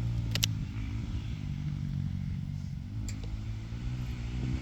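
Motocross dirt bike engine running, its pitch rising and falling as the throttle is worked, with a sharp click about half a second in.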